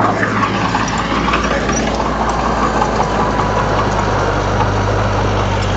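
Komatsu D31 bulldozer's diesel engine running steadily with a low hum.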